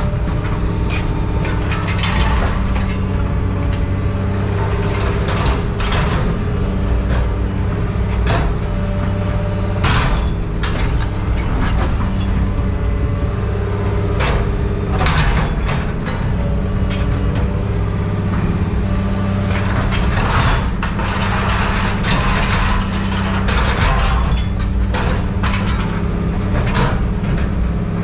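Heavy diesel machinery running steadily while scrap metal is handled or cut, with irregular clanks and sharp cracks of metal on metal over the engine.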